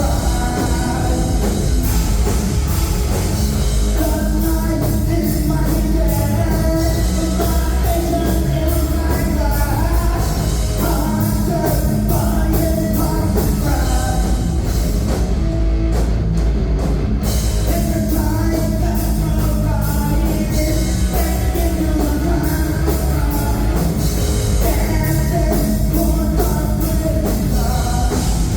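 Live rock band playing loud with singing over guitars, bass and drums; the cymbals and other highest sounds drop out briefly about halfway through.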